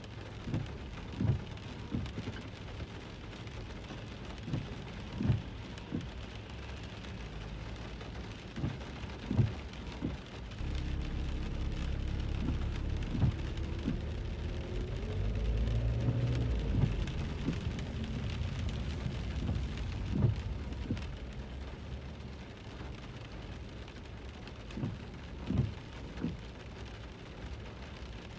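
Rain falling on a car, heard from inside the cabin while driving, with scattered low thuds. From about ten seconds in, a louder low rumble of the moving car swells for some twelve seconds with a tone that rises and falls, then eases back.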